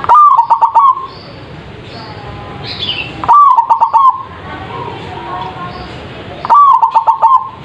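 Zebra dove (perkutut) singing three loud, near-identical phrases about three seconds apart. Each phrase is an opening coo followed by a quick run of short coos.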